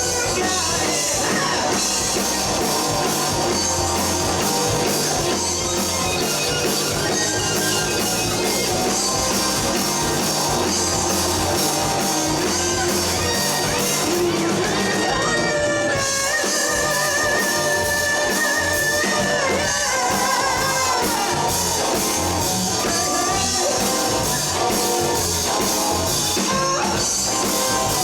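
Rock band playing live: electric guitars, bass guitar and drums, with a long wavering high note held in the middle.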